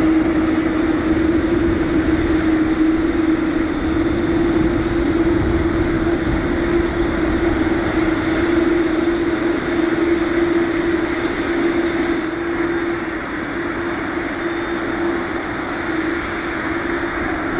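Boeing 787-9 airliner's jet engines running at idle while taxiing: a steady rushing hum with a constant mid-pitched tone. It eases slightly about twelve seconds in.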